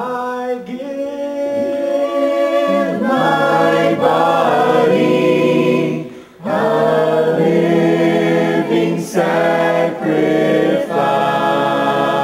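Congregation singing a worship song a cappella, many voices together in unaccompanied sung phrases, with a short breath-pause about six seconds in.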